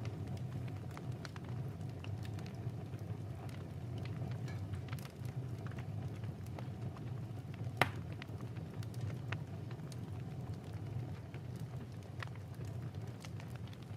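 Wood fire crackling in a fireplace: scattered small snaps over a low steady rumble, with one sharper pop about eight seconds in.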